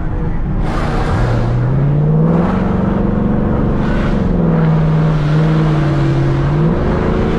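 Chevrolet Camaro SS's V8 heard from inside the cabin, revving up hard as the car accelerates about a second in, holding high, then easing off with the pitch sinking before it climbs again near the end.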